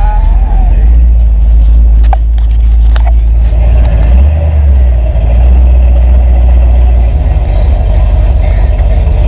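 Motor vehicle driving: a loud, deep engine and road rumble, with two sharp clicks about two and three seconds in and a brief change in the rumble a little after four seconds.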